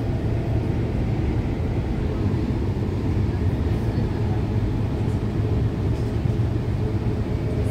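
REM light-metro train running along its track, a steady low rumble and hum of wheels and motors heard from inside the car.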